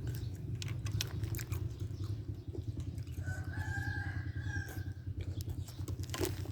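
A rooster crowing once in the background, one drawn-out call of about a second and a half starting about three seconds in, over a steady low hum and scattered small clicks.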